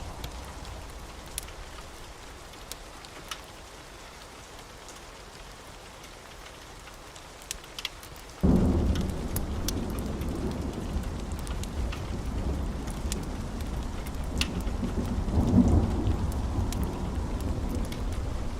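Wood fire crackling with scattered sharp pops. About eight seconds in, a loud low rumble cuts in suddenly and swells again near the end, carrying on under the crackle.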